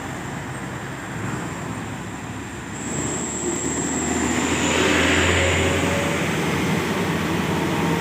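Heavy truck engine running as it climbs the steep hill, growing louder from about three seconds in as it comes closer.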